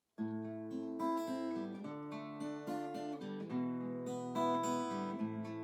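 Acoustic guitar playing chords as the instrumental introduction to a song, beginning a moment in.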